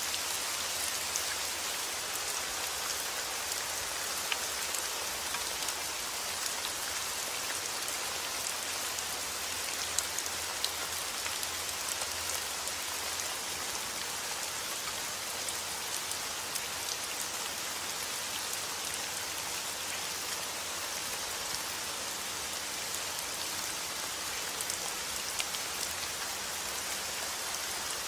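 Heavy rain falling steadily, an even hiss with scattered sharp taps of individual drops hitting a surface.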